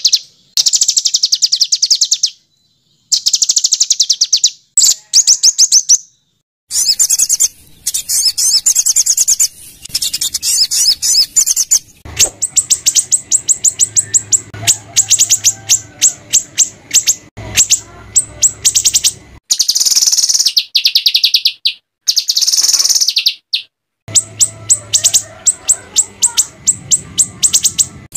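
Small songbirds giving harsh, rapid-fire chattering trills of high-pitched notes, the rough 'tembakan' bursts used as masteran song for training white-rumped shamas. The bursts last one to two seconds each and are separated by short gaps.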